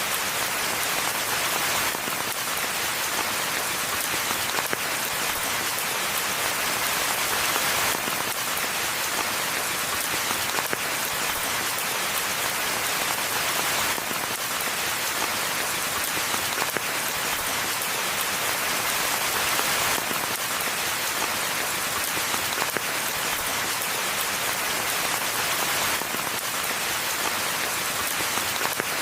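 Steady rain falling in a forest, an even hiss of many drops.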